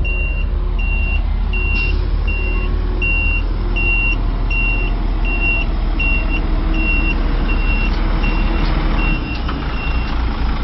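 Reversing alarm on a breakdown truck beeping at a steady high pitch, roughly every 0.7 seconds, over the low, steady running of its diesel engine; the beeping stops about ten seconds in.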